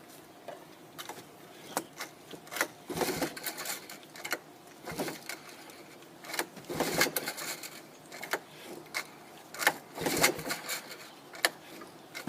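Irregular clicks, knocks and rustling from hands handling things, in scattered clusters, with no engine running.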